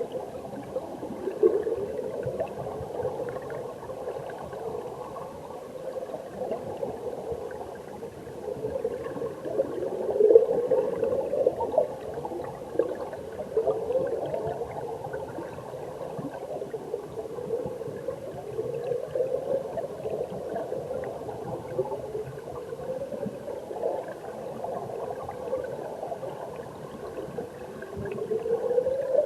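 Mountain stream water heard underwater: a muffled, steady gurgling rush, with short rising gurgles recurring every few seconds.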